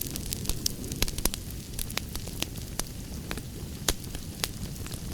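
Campfire burning with irregular sharp crackles and pops over a low steady rumble of the flames.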